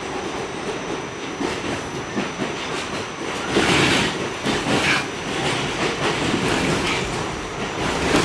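Inside an R46 subway car running along the track: a steady rumble of steel wheels on rail with clatter over the joints. It grows louder and harsher for a second or two about halfway through, then settles back.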